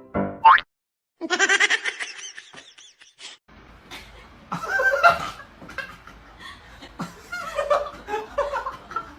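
A high, wavering voice-like sound about a second in, followed by several short bursts of people laughing.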